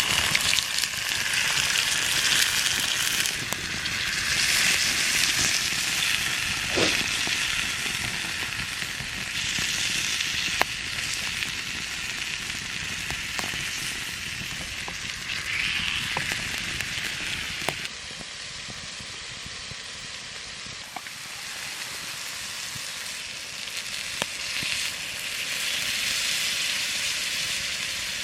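Campfire burning with a steady sizzling hiss and scattered sharp crackles and pops.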